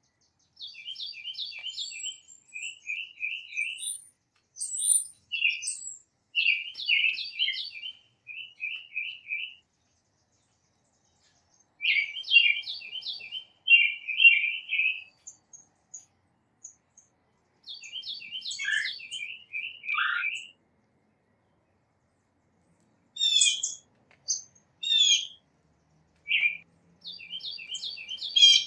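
Songbirds singing: repeated phrases of quick chirped notes, several a second, in bursts of a few seconds with short pauses between them.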